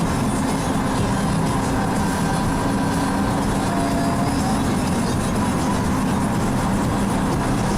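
1957 Chevrolet stepside pickup driving at a steady pace, with the engine running evenly under road and wind noise.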